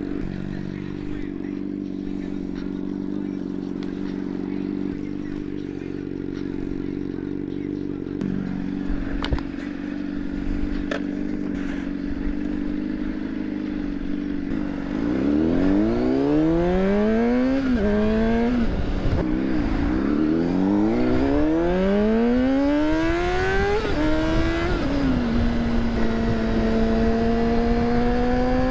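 A vehicle engine idling steadily for about fifteen seconds, then pulling away: its pitch climbs and drops back several times as it shifts up through the gears, and it settles into a steady cruise near the end.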